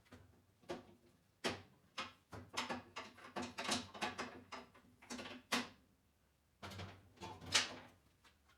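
Irregular knocks, clatters and scrapes of metal parts and tools being handled during mower repair work, some strikes ringing briefly, with a short pause about six seconds in.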